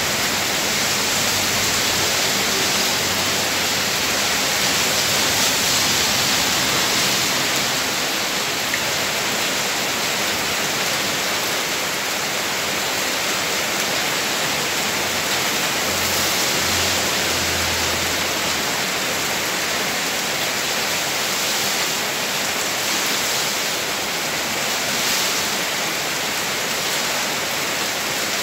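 Steady rain falling on wet ground and the road, an even hiss with no breaks.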